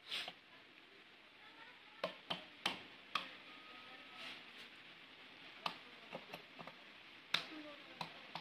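Scattered light clicks and taps of metal engine parts and hand tools being handled during motorcycle engine assembly, about a dozen sharp knocks spread irregularly, several close together around two to three seconds in.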